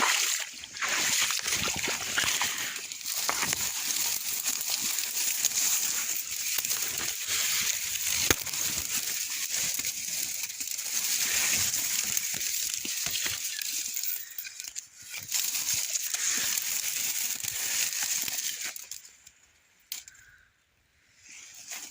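Water sloshing and splashing with a dense crackling rustle that keeps going, then stops abruptly about two seconds before the end.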